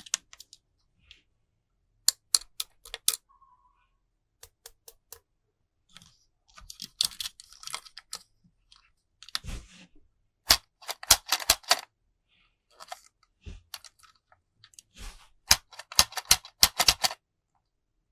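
Plastic toys and packaging being handled: clusters of rapid sharp clicks and taps, with rustling in between.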